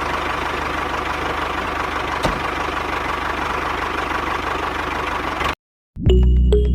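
A machine running steadily with an even, engine-like drone and a low hum. It cuts off suddenly near the end, and after a brief silence music begins.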